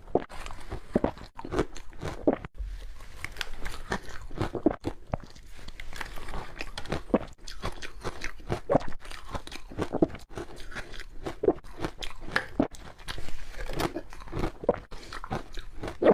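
Ice being bitten and chewed close to the microphone: a continuous run of crisp, irregular crunches, several a second.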